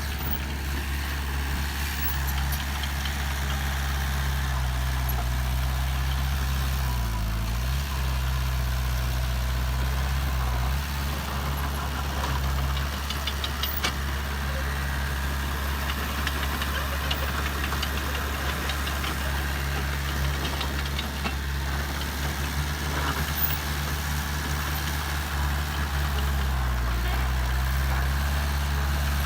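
Diesel engine of a heavy earthmoving machine running steadily, its pitch dipping briefly twice, about seven seconds in and near the end.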